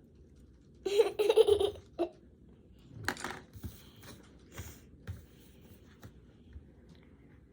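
A child giggling briefly about a second in, followed by a few soft knocks and scrapes.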